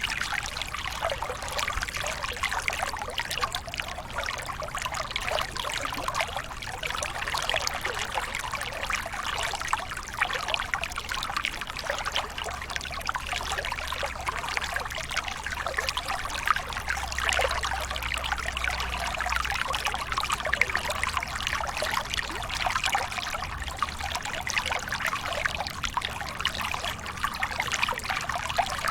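Waterfall pouring and splashing steadily, a constant water noise with dense small splashes and no pauses.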